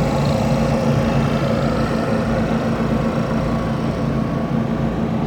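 An engine running steadily at idle, its pitch holding even with no revving.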